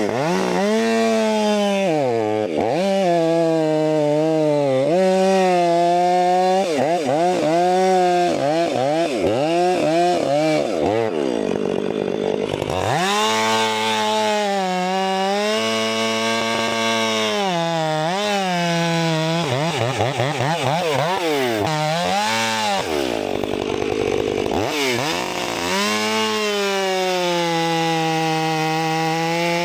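Two-stroke gas chainsaw cutting through logs, its engine pitch rising and sagging as it works through the wood, and dropping back toward idle several times between cuts before revving up again.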